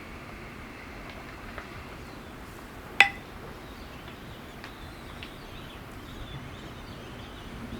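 Wood block ticking a slow breath count: one sharp, ringing knock about three seconds in, with much fainter ticks roughly every second and a half, over a low steady hiss.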